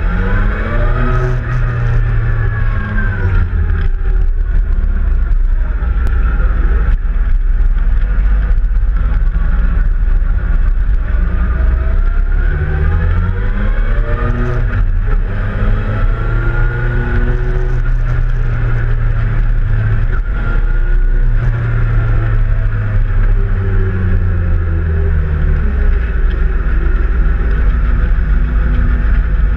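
Suzuki GSX-R1000's inline-four engine heard from onboard, running at low speed with its revs rising and falling several times as it pulls along and changes gear.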